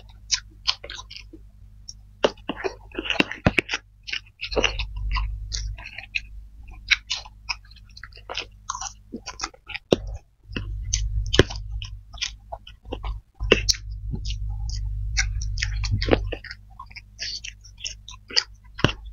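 Close-miked chewing of spicy fried flat rice noodles (kway teow) with fried egg: many short, wet mouth clicks and smacks over a low steady hum.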